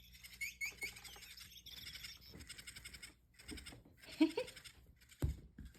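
Electronic chirping-bird cat toy giving repeated short, high bird-like chirps, with a brief lower squeak about four seconds in and a short knock a little after five seconds.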